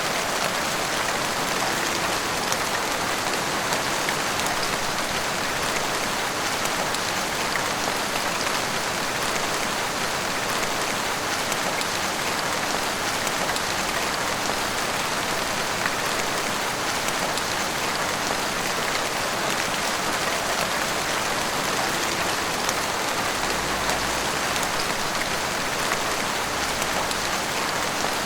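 Heavy rain pouring steadily: a dense, even hiss with many small drop ticks.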